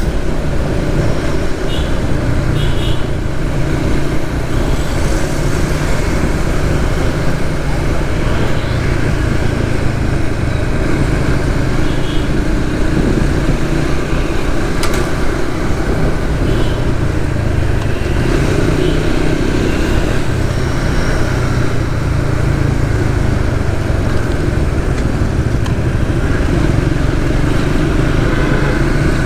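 Suzuki GSX-S150's single-cylinder engine running steadily under way in traffic, with a continuous rush of road and wind noise. A few brief high beeps come and go, and there is a single sharp click about halfway through.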